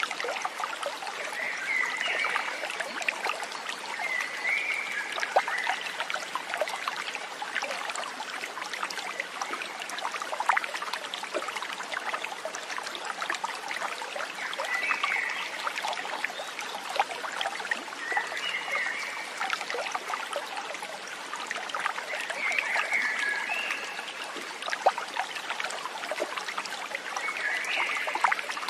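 A stream trickling and splashing steadily, with a short animal call heard about six times, a few seconds apart.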